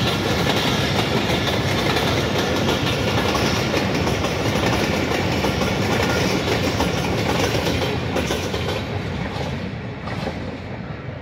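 Pakistan Railways Hazara Express passenger coaches rolling past, their wheels clattering over the rail joints. The sound fades in the last few seconds as the train draws away.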